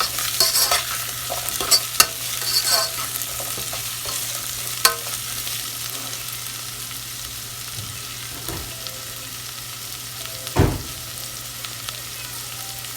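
Chopped onion, capsicum, ginger, garlic and green chillies sautéing in hot oil in a pan, with a steady sizzle, while a utensil stirs and scrapes against the pan with sharp clicks over the first five seconds. A single dull knock about ten and a half seconds in.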